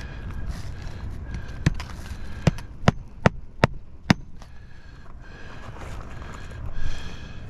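Hammer driving a roofing nail through an asphalt shingle: six sharp strikes, coming faster toward the end, over a steady low rumble.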